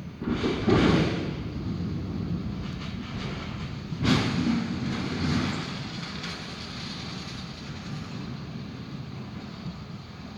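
Thunder from nearby lightning strikes: a sudden crack about half a second in and another sharp crack about four seconds in, each followed by a long rolling rumble that dies away slowly.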